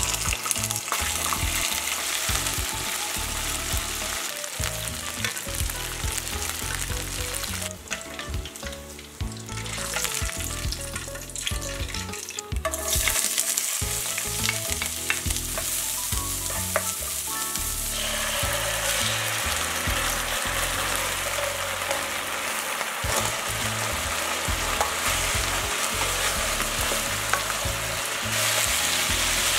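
Chicken thigh pieces sizzling in hot oil in a frying pan during their second fry. Partway through, the sizzle gets louder as diced bell peppers, garlic and dried chillies are stir-fried. Near the end the fried chicken is tossed in the pan with the sauce, sizzling and stirring.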